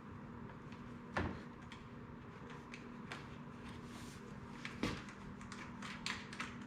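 Plastic trim clips and a mesh grille being handled and pressed into a car bumper: two sharp knocks, about a second in and near five seconds, then a quick run of small clicks near the end, over a steady faint hum.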